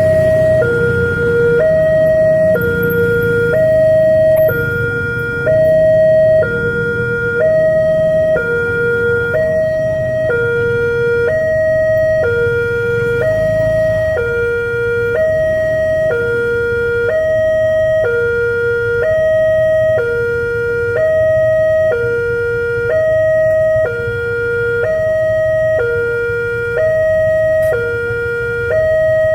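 Railway level crossing's electronic warning alarm sounding continuously, switching between a higher and a lower tone about once a second, which signals that a train is approaching and the crossing is closing.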